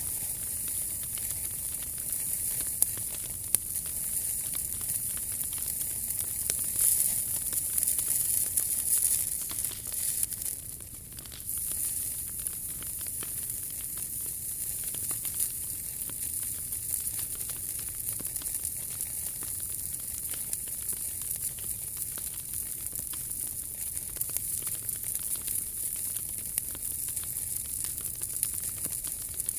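Wood fire burning in a POMOLY T-Brick Ultra fire pit: a steady hissing crackle with a few sharp pops. It grows louder for a few seconds around a quarter of the way in, then dips briefly.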